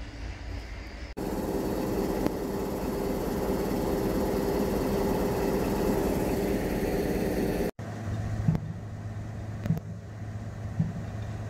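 A loud, steady rail-vehicle running noise with several low tones starts abruptly a little over a second in and cuts off after about six and a half seconds. It is followed by the steady low hum of a yellow track-maintenance machine's engine running, with a few knocks about a second apart.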